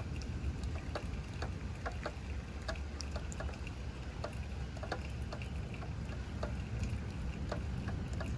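Rain during a thunderstorm: irregular drops ticking and pattering several times a second over a steady low rumble.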